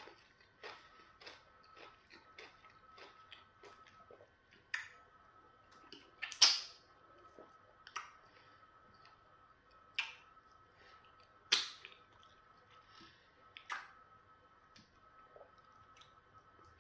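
Close-miked chewing and mouth sounds of a person eating pounded yam fufu with okra soup. Quick soft chewing clicks come first, then a few louder wet smacks every second or two.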